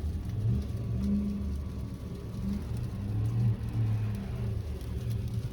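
A car's engine and tyre rumble heard from inside the cabin while driving, a steady low drone with a hum that swells and eases slightly.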